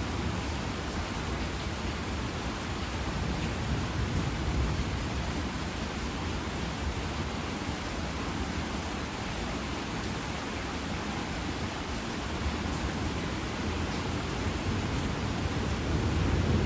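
Steady heavy rain in a summer thunderstorm, an even hiss with a deep low rumble beneath it. The rumble grows louder near the end as a roll of thunder builds.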